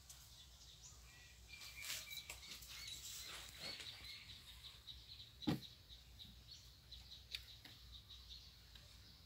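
Small birds chirping faintly in the background, with a single soft thump about halfway through and a few faint clicks after it.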